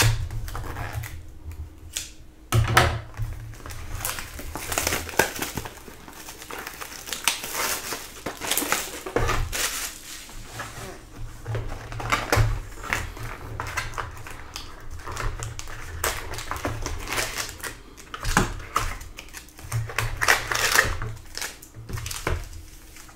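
Plastic shrink-wrap crinkling and tearing as a sealed trading-card hobby box is unwrapped and opened, an irregular run of crackles and clicks with occasional handling knocks.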